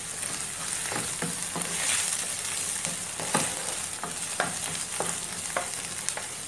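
Onions, ginger-garlic paste and cumin frying in oil in a non-stick pan, sizzling steadily, while a wooden spatula stirs them with short, irregular scrapes and taps against the pan.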